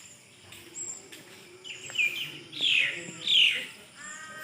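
Birds chirping and calling outdoors. A faint high note repeats about every half second, and in the middle come several loud, quick calls that sweep downward in pitch.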